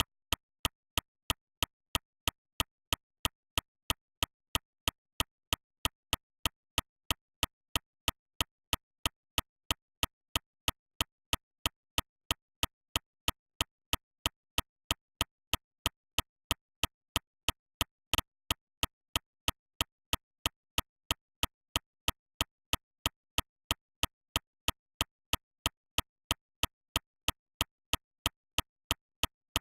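Sharp, evenly spaced ticks, about three a second, with silence between them.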